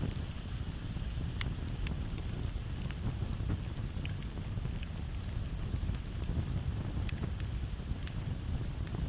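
Campfire crackling, with sharp pops scattered irregularly over a low steady rumble. Crickets chirr steadily and high in the background.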